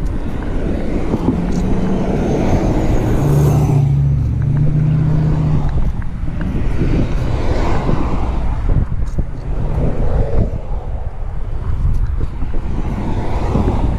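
Wind rushing over the microphone of a camera riding along on a moving bicycle, mixed with road and traffic noise. A low steady hum runs from about a second and a half to six seconds in.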